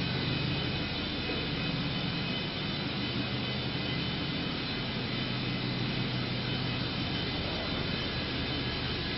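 A Chevrolet Silverado's 6.0-litre V8 running at a steady idle, an even hum with a constant whine above it.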